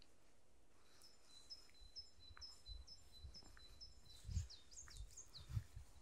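Songbird singing: a quick run of short, high, repeated notes starting about a second in, turning into sharper falling notes after about four seconds. A few soft low thuds come near the end.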